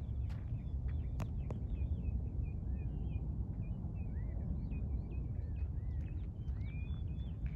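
Several small birds chirping and calling throughout over a steady low rumble, with a few sharp clicks in the first couple of seconds.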